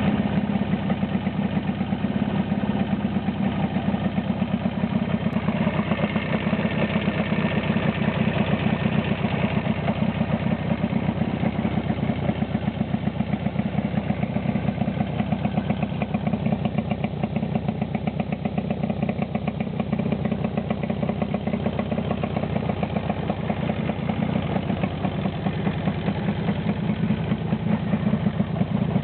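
Jawa 350 type 638 air-cooled two-stroke twin engine idling steadily, freshly rebuilt with a new cylinder and piston set.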